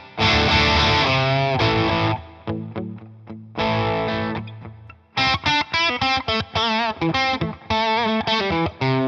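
Distorted electric guitar played through a Hotone Soul Press wah pedal: a held chord with its tone sweeping, a few sparse notes dying away, then about five seconds in a fast, choppy riff with the wah moving.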